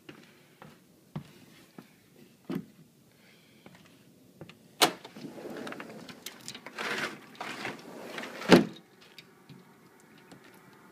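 A door being worked on the way out: a few sharp clicks, a stretch of rushing, sliding noise, then one loud thump about eight and a half seconds in.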